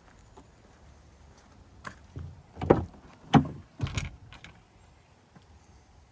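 Three heavy clunks about two thirds of a second apart, with lighter clicks around them, from the pickup's doors or body being handled.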